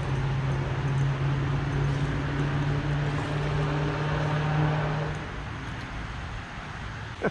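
A steady low engine hum that dies away about five seconds in, followed by a short sharp squeak near the end.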